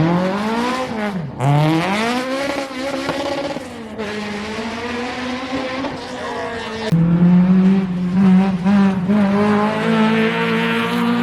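Rally car's engine revving hard, its revs swinging down and back up twice near the start, then held at a steady pitch and louder from about seven seconds in.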